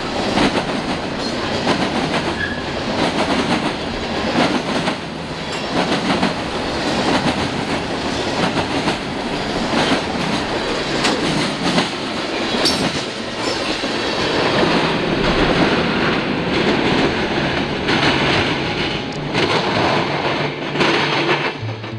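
Freight train of covered hopper cars rolling past close by: a steady rumble of steel wheels on rail, with irregular clicks and clanks as the wheels pass over the rail.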